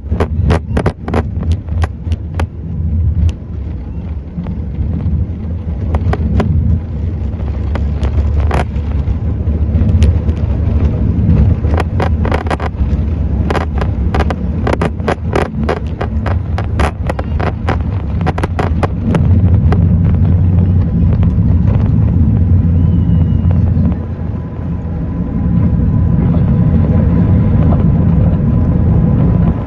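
Airbus A380's four jet engines at takeoff power: a loud, steady low rumble with frequent sharp crackles.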